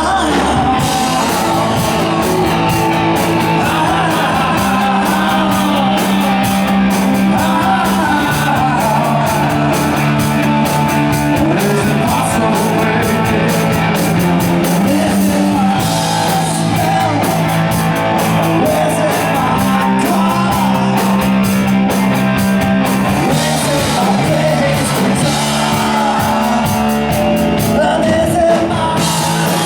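Rock band playing live: a singer over electric guitar, bass and drums.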